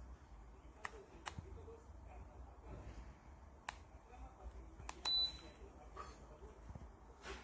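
Several sharp, separate clicks, with one short high-pitched beep about five seconds in, over a faint low hum.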